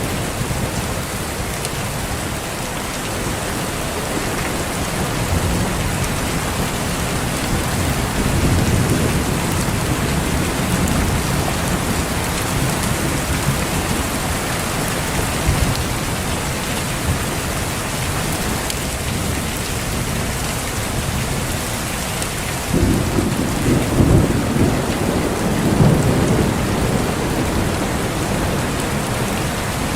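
Steady heavy rain falling, with thunder rumbling low in the background. A louder roll of thunder starts suddenly about three-quarters of the way through and rumbles for a few seconds.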